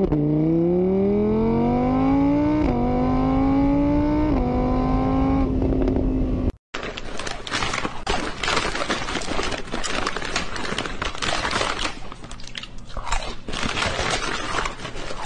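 A car engine revving up as it accelerates, its pitch climbing with two brief steps like gear changes, then holding steady. It cuts off suddenly, and after a brief gap a rough scraping, crackling noise runs to the end.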